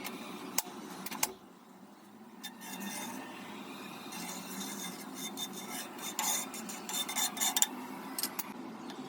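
Metal kitchen utensils clinking and scraping against dishes. There are a few single clicks in the first three seconds, then a busier run of clinks and scrapes about six to eight seconds in.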